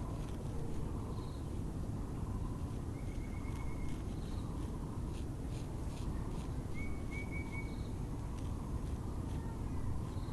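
Songbirds calling over a steady low background rumble: two short rapid trills about three and seven seconds in, a few brief high chirps, and a quick run of clicks in the middle.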